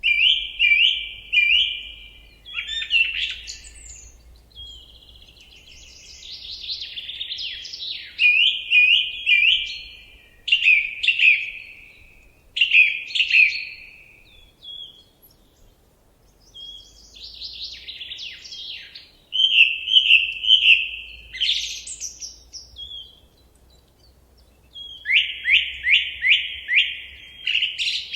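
A songbird singing varied phrases, each a quick series of repeated high notes, with short pauses between the phrases.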